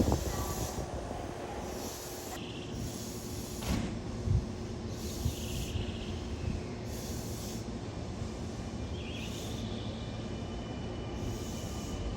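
Semboku Rapid Railway electric train running on the track: a steady rumble with a few wheel thumps about four seconds in.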